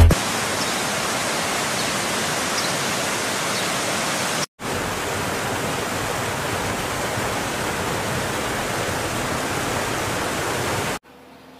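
Steady rushing noise with no tones, like wind or running water, cut off briefly about four and a half seconds in and stopping abruptly near the end, leaving only a faint hiss.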